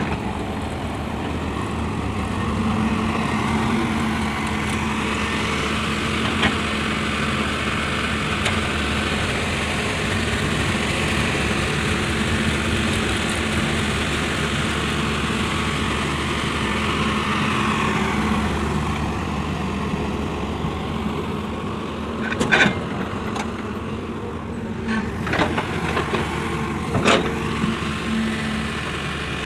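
Heavy diesel machinery, a backhoe loader and tractors, running steadily under work, with a swell in the middle. A few sharp knocks come near the end.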